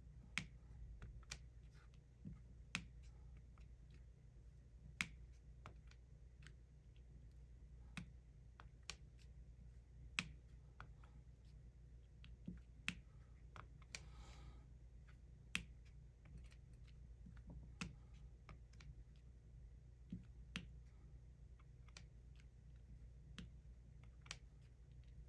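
Sharp, irregular clicks and taps, roughly one every second or two, of resin diamond-painting drills being picked up and pressed onto a sticky canvas with a drill pen, over a low steady hum. A brief rustle comes about halfway through.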